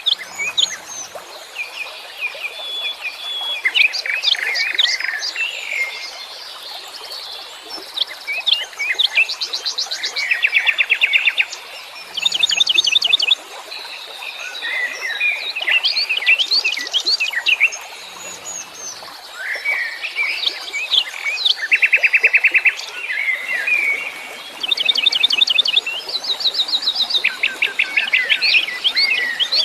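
Several wild songbirds chirping and singing at once in a dense, overlapping chorus of varied high calls. Rapid trills of quick, evenly repeated notes, each lasting a second or two, break in every few seconds.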